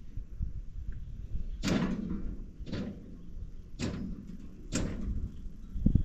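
Four heavy knocks about a second apart, each with a short ring after it, then a sharper knock near the end.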